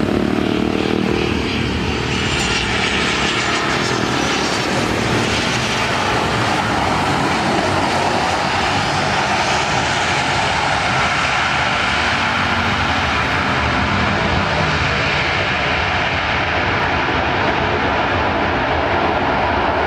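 Airliner's engines during a landing approach, a loud steady rush of engine noise, with faint falling whines a few seconds in.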